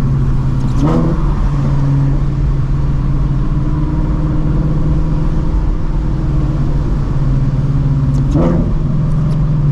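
Shelby GT350's 5.2-litre Voodoo flat-plane-crank V8, breathing through long-tube headers and a Borla cat-back with its exhaust valves shut, running at steady low revs while the car moves along slowly, heard from inside the cabin. There is a brief sharper sound about a second in and again near the end.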